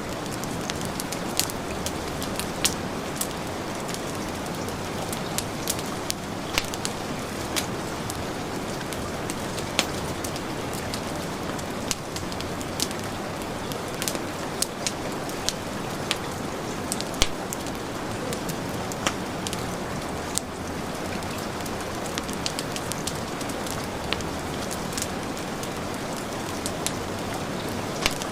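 Heavy rain falling steadily, mixed with a wood fire crackling, its sharp pops scattered irregularly at a few per second.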